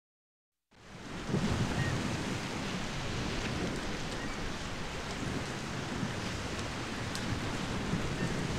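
Ocean surf breaking: a steady rushing wash with low rumbling, cutting in abruptly out of silence just under a second in.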